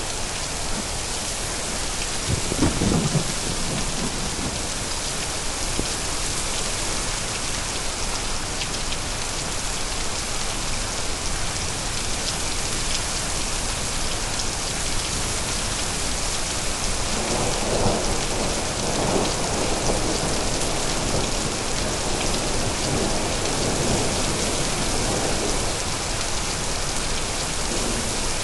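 Steady heavy rain falling, with a rumble of thunder about two seconds in and a longer rolling stretch of thunder in the second half.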